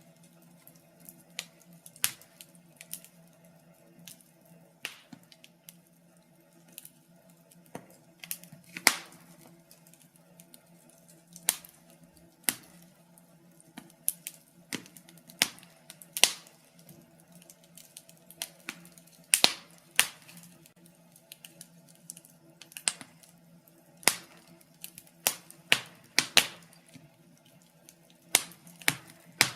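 Wood fire in a fireplace crackling: irregular sharp pops and snaps, sometimes in quick clusters, over a faint steady low hum.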